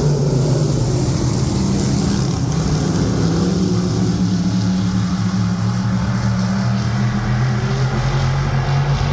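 Dirt-track modified race car engines running with a steady droning pitch.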